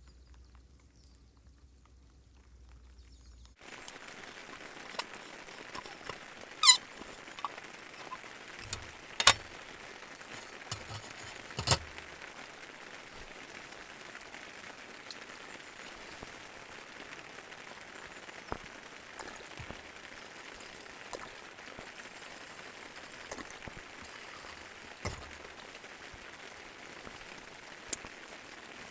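Wood campfire crackling: a steady hiss with scattered sharp pops, three loud ones soon after it starts, a few seconds in, fainter ones after.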